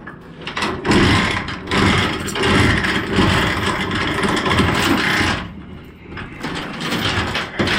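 Nylon cargo strap webbing dragged through a flatbed trailer's rub rail, a long scraping rush that starts abruptly, breaks off briefly and starts again near the end.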